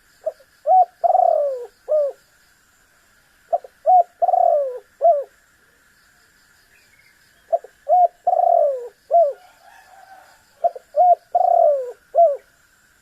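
Spotted dove (tekukur) calling: four repeated coo phrases, each two quick short notes, a longer falling coo and a short closing note, about one phrase every three seconds.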